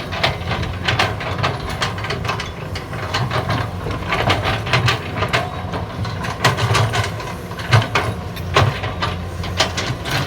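CAT 320D hydraulic excavator working, its diesel engine running steadily under irregular knocks and clatter from digging. The loudest knock comes about three quarters of the way through.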